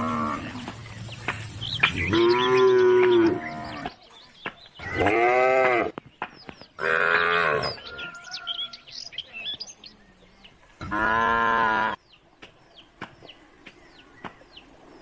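Cows mooing: four separate calls of about a second each, a few seconds apart, each rising and then falling in pitch. Faint short high chirps fill the gaps in the second half.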